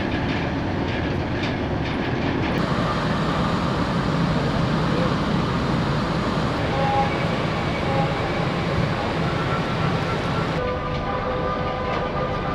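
Steady rumble and rush of the car ferry Ishikari under way. Near the end several steady tones are held over it.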